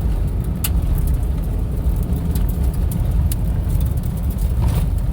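Steady low rumble of a vehicle driving over a rough dirt trail, heard from inside the cabin, with a few sharp clicks.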